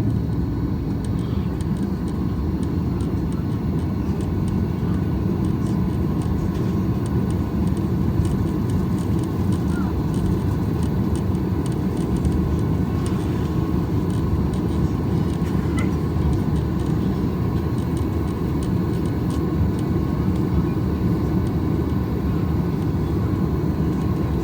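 Steady cabin rumble of a Boeing 737-800 heard from inside the passenger cabin: its CFM56-7B engines run evenly with no build-up of thrust, as while taxiing.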